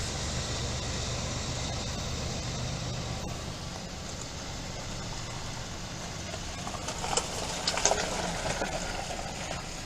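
Freight cars rolling past on the rails: a steady rumble that eases off after a few seconds, then a short run of sharp clacks and squeaks near the end.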